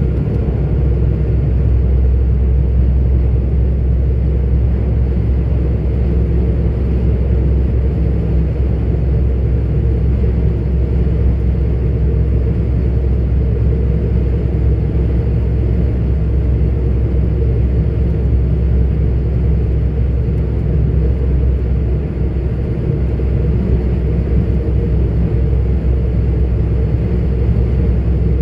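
Diesel engine of a 44-ton articulated truck running steadily as it drives along, heard from inside the cab as a deep, even drone with road rumble.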